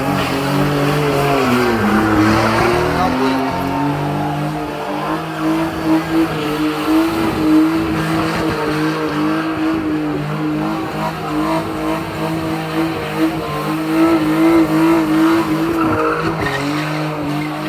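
Drift car's engine held at high revs, its pitch wavering slightly, with tyres squealing as the car drifts and spins. The revs rise and dip in the first couple of seconds, then stay high.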